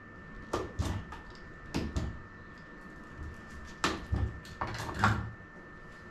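Irregular knocks, clicks and scrapes of plastic pipe fittings being handled and pushed together, in clusters of two or three, over a faint steady high-pitched tone.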